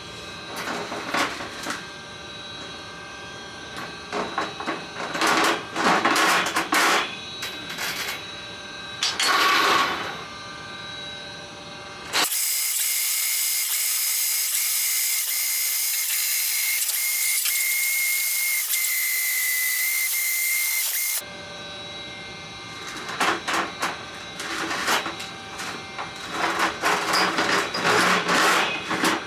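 Drain-cleaning machine running a snake cable down a main sewer line: uneven surges of whirring and cable clatter, broken in the middle by about nine seconds of steady loud hiss.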